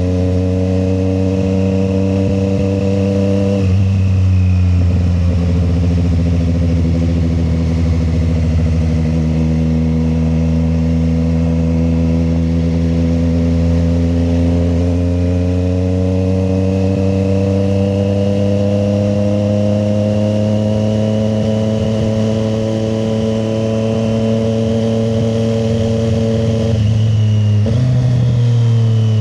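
Triumph Street Triple 765 RS's inline three-cylinder engine running steadily at road speed. The engine note shifts a few seconds in, then climbs slowly in pitch before dropping near the end.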